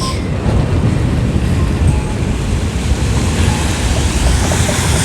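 Wind buffeting the microphone in a loud, steady low rumble, over city street traffic. From about three seconds in, a hiss of tyres on wet pavement grows as a vehicle approaches.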